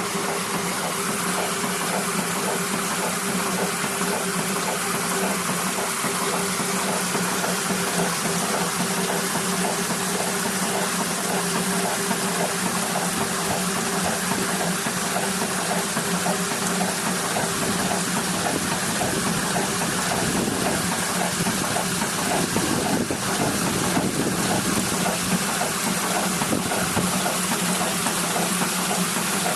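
Ca. 1891 Boettger-built 6-inch Rider hot air pumping engine running, its pump sending out a steady gushing flow of water.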